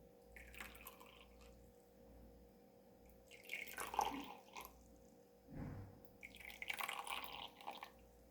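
Liquid poured in three short pours during tea brewing, with a soft low knock between the second and third pour.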